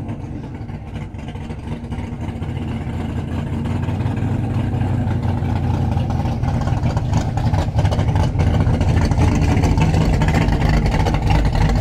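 A car or truck engine running close by, growing louder over the first several seconds and then holding steady.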